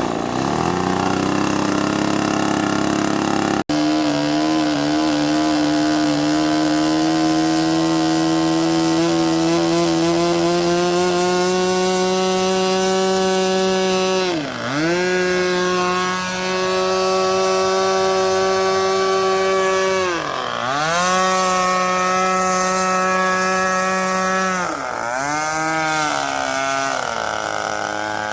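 Small model airplane engine on a foam RC plane running at high revs with a steady, high buzz that slowly climbs in pitch. It is throttled down and back up three times, about halfway through, two thirds in and near the end.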